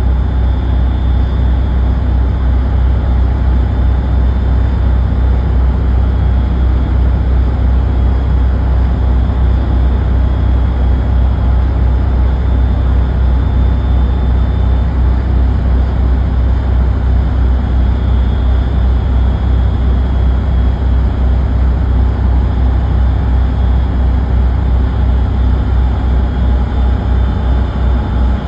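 Tugboat's diesel engine running steadily: a loud, unchanging low drone with a faint high whine above it.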